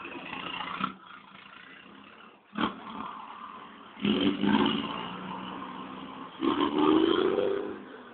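Mercedes-Benz Atego truck's diesel engine revved in blips: a short rev at the start, then two longer revs about four and six and a half seconds in, the last one rising in pitch. A single sharp pop comes about two and a half seconds in.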